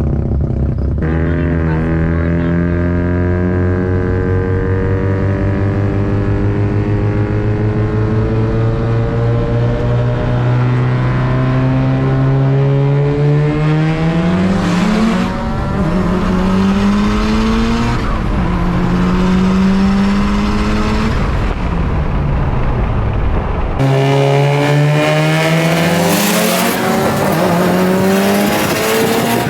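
Car engine accelerating hard through the gears at full throttle, its pitch climbing and then dropping at each upshift. Near the end the sound changes abruptly to a brighter mix of engine and tyre noise.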